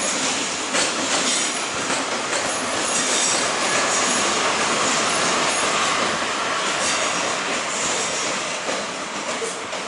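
Train running through a station, its wheels on the rails giving a steady rumble with clacks and thin high-pitched squeals. The sound eases off near the end as the train moves away.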